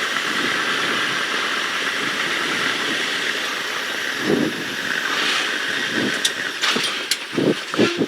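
Inside the cockpit of a Carbon Cub light aircraft on a slow, full-flap final approach: a steady mix of engine at reduced power and wind rush. A few short knocks and clunks come in the last two seconds.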